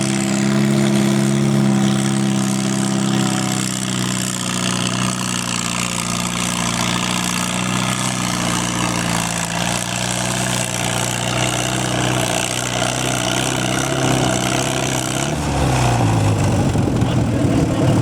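1940 Farmall H tractor's four-cylinder engine running hard under load while pulling a weight sled. About fifteen seconds in, its pitch drops as the engine lugs down.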